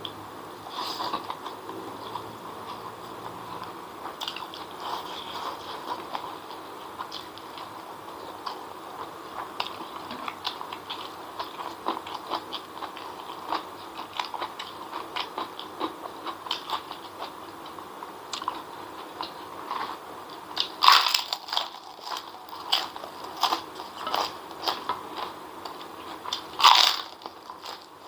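Close-miked mukbang eating sounds: a person chewing fried noodles with many small wet mouth clicks and crackles. A few loud, crisp crunching bites stand out about three-quarters of the way through and again near the end.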